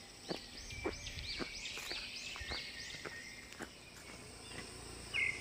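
A bird calling in forest, a quick run of about ten arching notes, each rising and falling, that stops a little before four seconds in; a shorter chirp comes near the end. Faint taps are heard between the notes.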